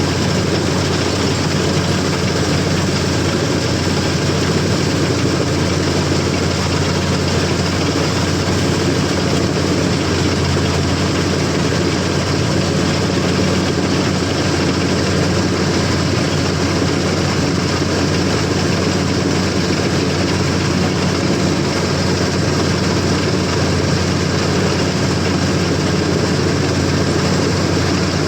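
CLAAS combine harvester's diesel engine running at a steady speed, an even heavy drone that holds unchanged throughout.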